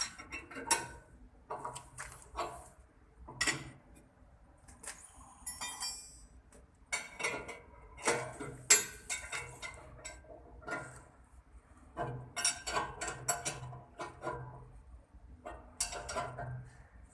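Irregular metallic clinks and knocks of hand tools working on steel elevator parts, some with a short ringing after them.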